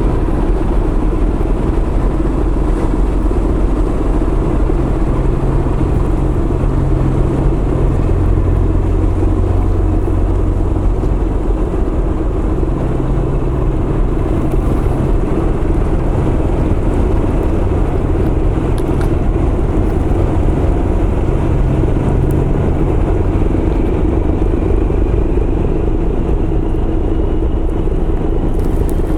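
Car ferry's diesel engines running steadily with a deep droning rumble. The low hum shifts in pitch now and then as the ship manoeuvres in the harbour, and a faint rising whine appears near the end.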